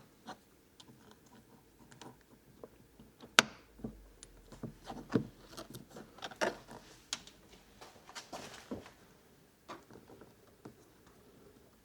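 Scattered small clicks, taps and rubbing as security lock parts are handled and fitted by hand, with one sharp click a little over three seconds in.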